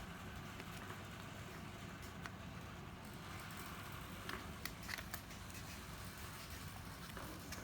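A few faint, light clicks and taps over a low steady hum.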